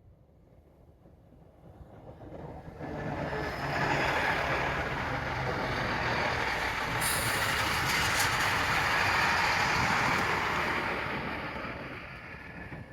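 A train passing by: the rumble builds over a couple of seconds, stays loud through the middle with a few sharp clicks, then fades away.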